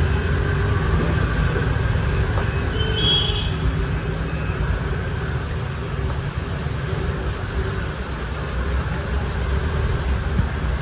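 Street traffic: a steady rumble of passing road vehicles, with a short high-pitched tone about three seconds in.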